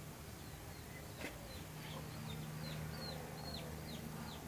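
A bird chirping: a quick series of short high notes, each falling in pitch, about three a second through the second half.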